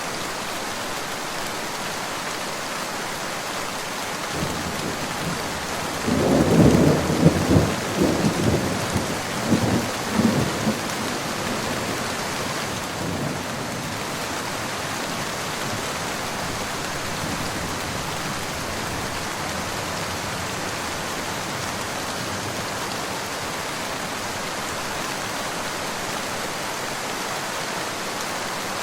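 Steady rain falling, with a roll of thunder about six seconds in that rumbles loudest for a second or two and fades out over the next few seconds.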